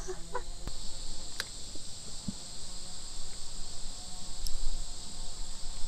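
Steady outdoor insect chorus, a continuous high-pitched buzz, with a few faint clicks.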